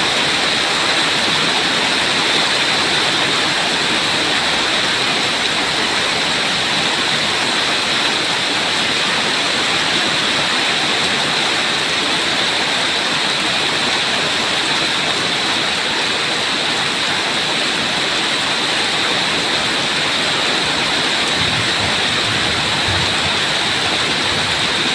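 Heavy rain pouring down in a steady downpour, with a brief low rumble near the end.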